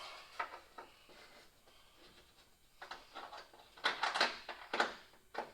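Hand tools being handled while sorting through sockets for the right size: scattered light clicks, then a quick run of sharper clacks about three to five seconds in.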